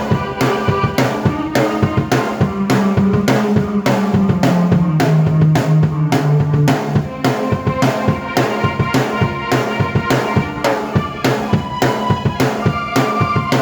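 Drum kit and keyboard played together: a steady driving beat of kick and snare under sustained keyboard chords, with a low line that steps down around the middle.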